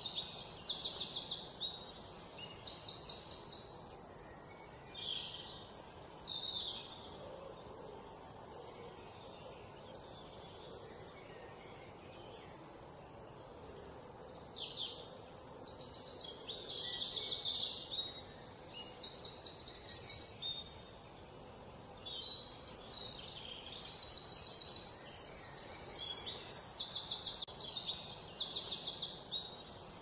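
Birds chirping, with many short, high-pitched rapid trills repeated again and again and quieter chirps between them. The calls thin out in the middle and grow busier again in the second half.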